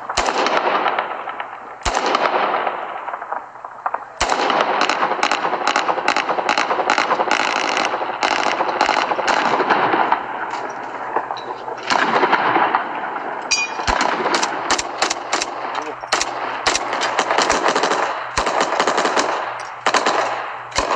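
Gunfire: a few single shots with echoing tails in the first four seconds, then long stretches of rapid automatic fire with short pauses.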